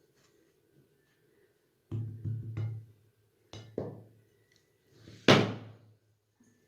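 Three separate thuds, each with a short ringing tail, the last the loudest.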